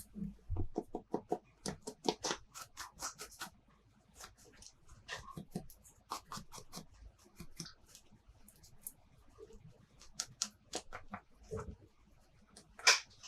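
Plastic toy playset pieces being handled and set down: a quick run of irregular taps and clicks, with one louder click near the end.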